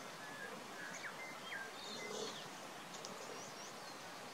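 Small birds chirping and whistling faintly in short, scattered calls over a steady outdoor hiss.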